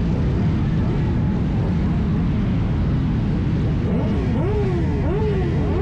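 Steady rumble and rush of riding among motorcycles on an electric motorbike. From about four seconds in, a whine rises and falls over and over, roughly every two-thirds of a second.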